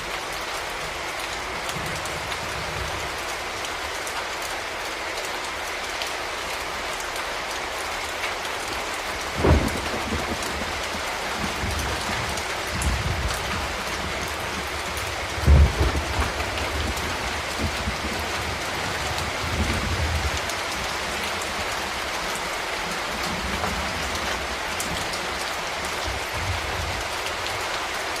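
Steady heavy rain falling on a surface, with low rumbles of thunder several times, the loudest about halfway through.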